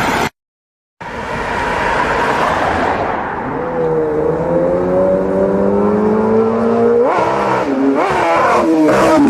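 Sportbike engine, most likely an inline-four, starting about a second in and pulling with its pitch climbing slowly and steadily, then revved in several quick sharp up-and-down blips near the end.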